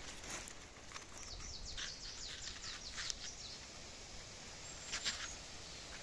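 A small songbird singing a quick run of about ten short notes, each falling in pitch, lasting about two seconds. Short crackles of twigs and leaf litter come near the start and again about five seconds in.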